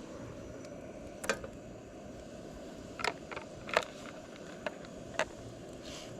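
Several sharp clicks and knocks, like gear being handled, over a steady low rushing noise.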